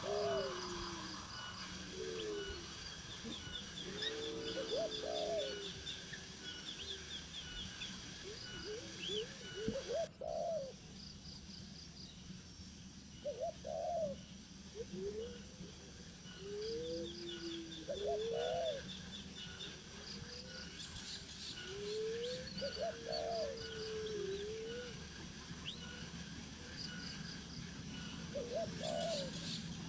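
Birds calling: a dozen or so short, low calls that rise and fall, spaced a few seconds apart, over rows of quick, high chirps from other birds.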